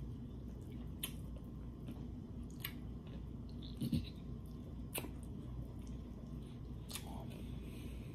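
Quiet chewing and wet squishing as rotisserie chicken is pulled apart by hand and eaten, with a few sharp clicks spaced a second or two apart over a low steady hum.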